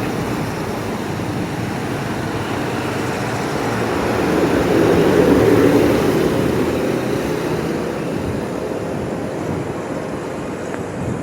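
Road traffic with a vehicle passing close by, growing louder to a peak about five seconds in and then fading.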